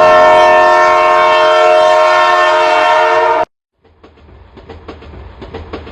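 A train horn sounds one long, steady chord and cuts off abruptly about three and a half seconds in. After a brief gap comes the rhythmic clickety-clack of train wheels on the rails, growing louder.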